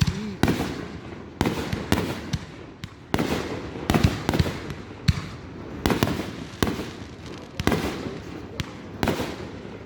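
Fireworks going off in quick succession: sharp bangs about once a second, each followed by a crackling tail that fades before the next.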